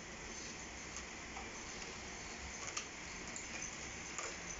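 Heavy continuous rain falling as an even, steady hiss, with a few sharp ticks of drops striking something close by.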